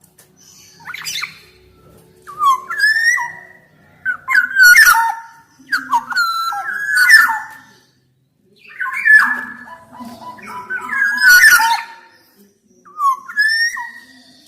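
Black-naped oriole (kepodang) singing: repeated short phrases of fluty, gliding whistles mixed with harsh rasping notes, about every second or two.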